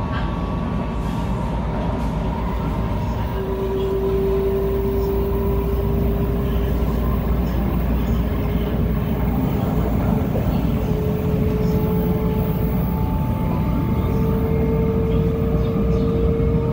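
Shinkansen running noise heard from inside the passenger cabin: a steady low rumble that grows slightly louder a few seconds in, with a faint hum that fades in and out.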